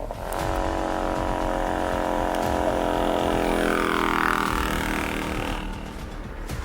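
Motorcycle engine running at steady high revs: an even buzzing tone that starts just after the beginning, holds, and fades away near the end.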